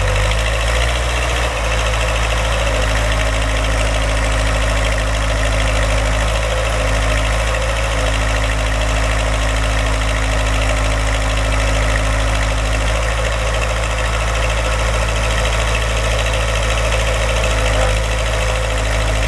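Backhoe engine running steadily at idle, its low note shifting slightly about a second and a half in.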